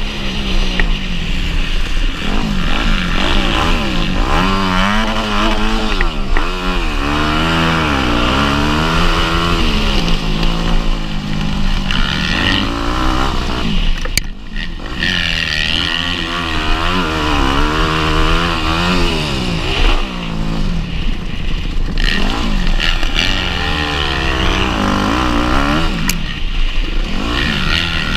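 Motocross bike engine racing, its revs climbing and dropping again and again as the throttle is opened and backed off, with a couple of sharp clicks.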